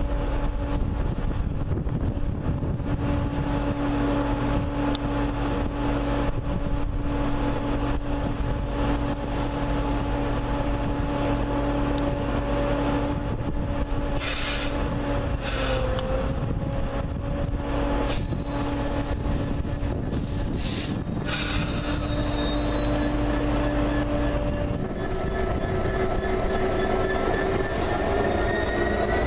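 Train at a station platform: a steady rumble and hum while it stands, then a rising whine in the last few seconds as it pulls away and gathers speed.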